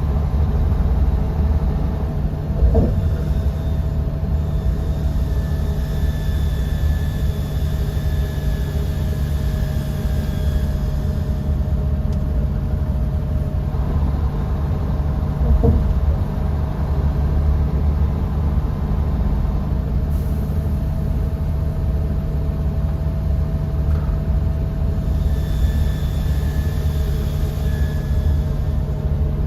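Bus engine and road rumble heard inside the passenger cabin, running steadily with a faint high whine that comes and goes. There are two brief jolts, about three seconds in and again near sixteen seconds.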